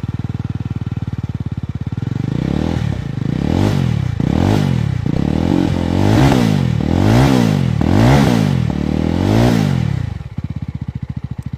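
2024 Jawa 350's 334cc single-cylinder engine, stationary, idling with a rumbling beat, then revved again and again in about seven throttle blips, with a few pops and bangs from the exhaust. It settles back to idle near the end and then shuts off.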